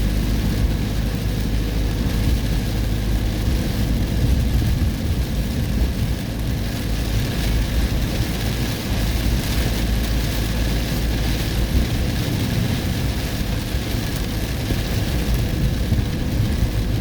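Heavy storm rain rushing steadily, over the low rumble of a vehicle travelling on the road.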